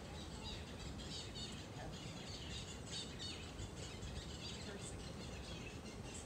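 Many small birds chirping, short high calls scattered throughout, over a steady low background rush of outdoor noise.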